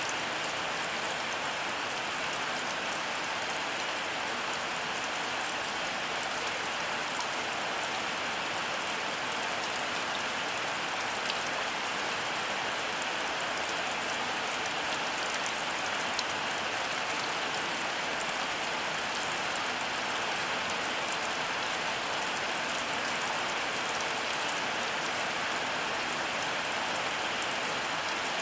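Heavy rain falling steadily, an even hiss with scattered individual drops ticking on surfaces.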